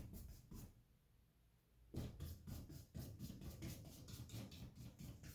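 Faint, rhythmic scrubbing of a paintbrush on canvas, about four to five strokes a second, with a pause of about a second near the start.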